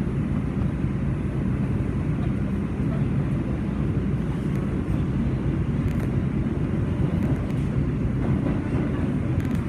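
New York City subway 4 train running between stations, heard from inside the car: a steady low rumble of wheels on rail in the tunnel, with a few light clicks about six seconds in and near the end.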